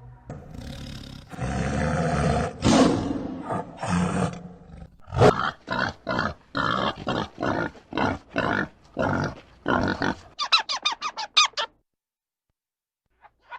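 Animal calls: rough roaring growls for the first few seconds, then a string of evenly repeated calls, ending in a quick run of high squeaky calls.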